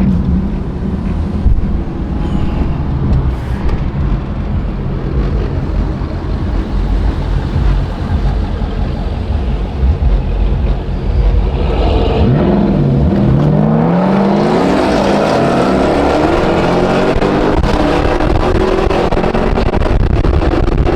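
Muscle-car V8 engines rumbling, then about halfway through one engine revs hard and accelerates, its pitch climbing steadily to the end.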